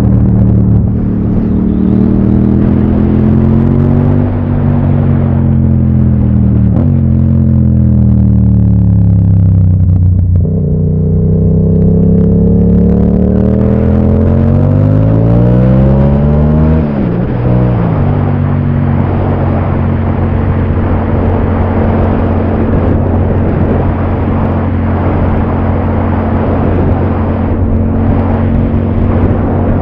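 Yamaha MT-07 parallel-twin motorcycle engine under way. The revs fall and climb again through gear changes over the twisty stretch, with a sharp change about 17 seconds in, then the engine holds a steady pitch while cruising.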